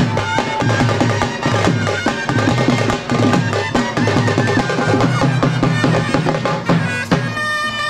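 Tamte frame drums beaten fast and continuously in a dense, driving folk rhythm. A reedy wind instrument comes in with held notes about seven seconds in.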